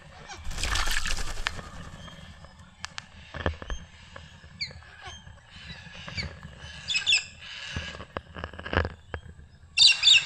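Birds bathing: wings fluttering and splashing in water, with short chirps and clicks scattered through, and a louder flurry of fluttering and chirps near the end.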